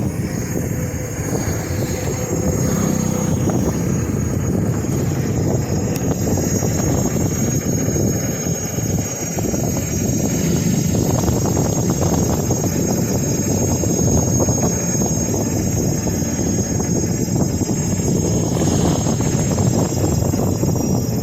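Ola S1X 3 kW electric scooter on the move: a steady rumble of hub motor and tyres on the road, with a thin steady high-pitched whine over it. The rider finds the sound unusual and later puts it down to tyre noise that changes with the road surface rather than a motor fault.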